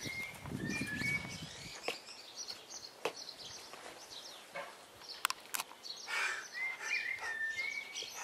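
Small songbirds chirping and twittering repeatedly, with a few whistled notes near the start and again near the end. A few sharp knocks or clicks are scattered through it.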